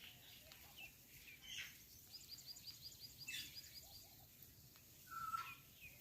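A parrot chirping and calling faintly. In the middle comes a quick run of about a dozen high chirps, and near the end a louder single call.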